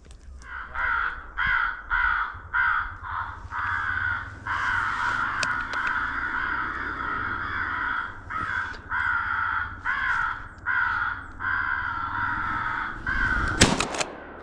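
Rapid crow caws, about three a second, running together into one long unbroken stretch in the middle, from crow calling used to draw birds in. Near the end a single loud shotgun blast cuts across the calling.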